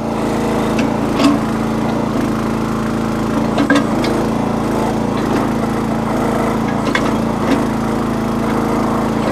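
Small engine of a Red Rock / Trencherman towable backhoe running steadily, with a few short knocks from the machine at work.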